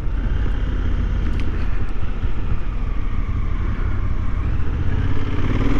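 Honda Africa Twin CRF1000L motorcycle riding along, steady engine and road rumble with wind rushing over the microphone. The engine note rises a little near the end.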